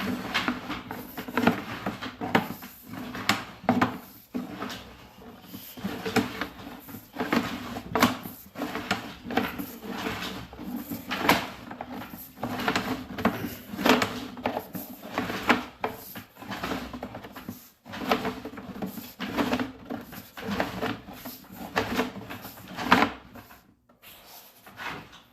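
Sewer inspection camera's push cable being fed into the drain through the plumbing stack, giving irregular knocking and rattling over a steady low hum.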